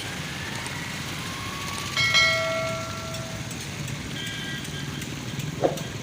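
Steady road traffic noise on a wet road. About two seconds in, a sudden loud multi-toned sound fades away over about a second and a half, and near four seconds a fainter, shorter one follows.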